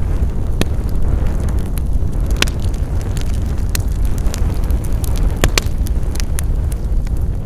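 Wood fire crackling: a steady low rumble of burning with irregular sharp pops and snaps, a close pair of louder pops about five and a half seconds in.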